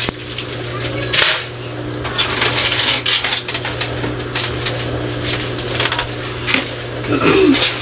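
Kitchen clatter of dishes and food containers being handled and set down, a string of knocks and clinks with a louder clatter a little over a second in. A steady low hum runs underneath.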